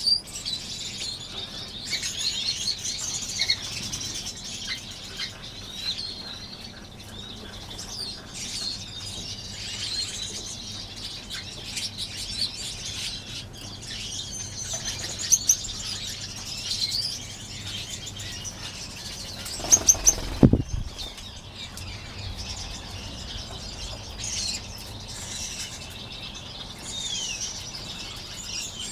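A crowded aviary of small finches, many chirping and calling at once, with wings fluttering as birds fly between perches. About two-thirds of the way through there is one loud thump with a brief deep rumble.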